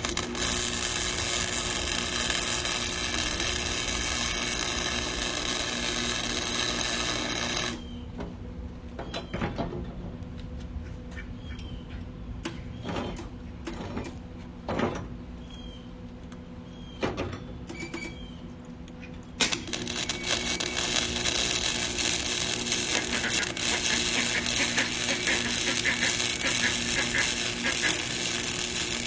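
Lincoln Electric Weld-Pak flux-core wire welder laying beads on rebar, a steady crackling sizzle for about eight seconds. It stops for a stretch of scattered clicks and taps, then the crackling starts again about two-thirds of the way in. A steady low hum sits beneath it all.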